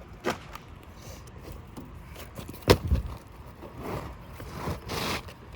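Handling noises on an asphalt-shingle roof: a small click, then one sharp knock a little under three seconds in, then softer scraping and rustling near the end.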